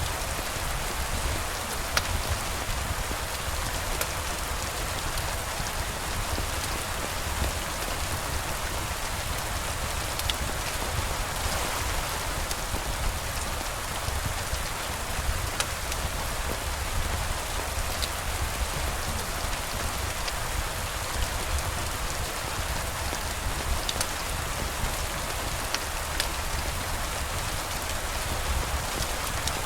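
Steady rain falling, with a low rumble underneath and scattered faint ticks.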